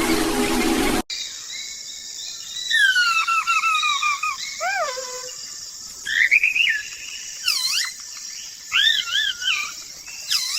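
A rushing water-like noise cuts off about a second in. It gives way to a bird singing in clear whistled phrases of sliding notes that fall and rise, over a steady high insect trill.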